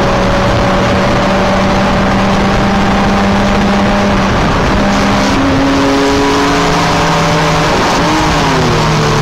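Race car engine heard from inside the cabin, running hard under load over loud road and wind noise. Its note cuts out briefly a little after four seconds in, then drops and changes pitch a few times in the second half.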